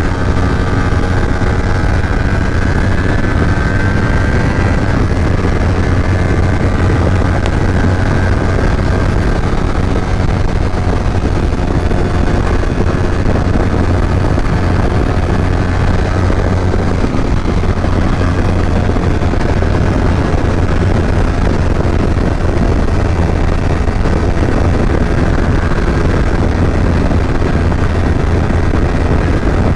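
Kawasaki Ninja 250 motorcycle engine running while under way, with heavy wind rush on the microphone. The engine's pitch is plain for the first few seconds, then mostly buried under the wind.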